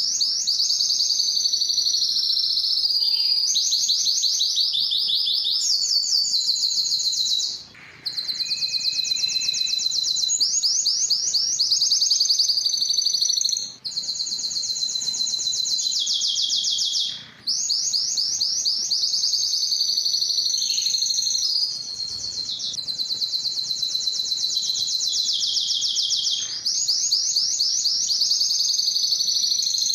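Domestic canary singing a long song of rapid trills and rolls, with brief breaks between phrases.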